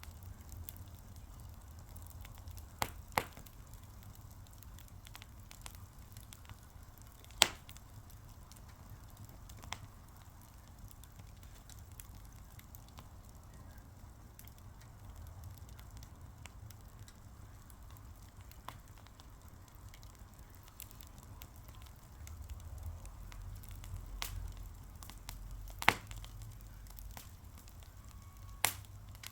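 Fire crackling, with a low steady rumble and scattered sharp pops, a few of them loud: one about seven seconds in and one near the end.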